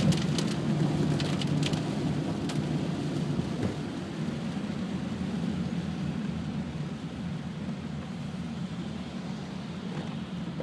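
Heavy rain falling, under a low rumble that is loudest at the start and slowly eases off, with a few sharp ticks in the first couple of seconds.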